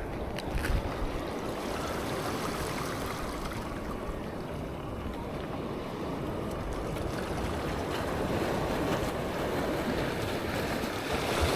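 Steady wash of waves with wind buffeting the microphone, and a couple of light clicks near the start.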